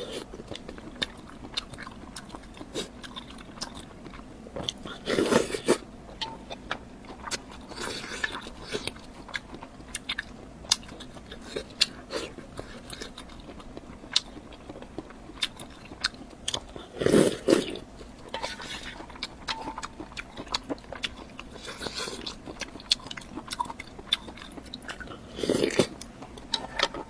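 Close-miked eating sounds: a person biting and chewing food, with many sharp mouth clicks and three louder bites about five, seventeen and twenty-six seconds in.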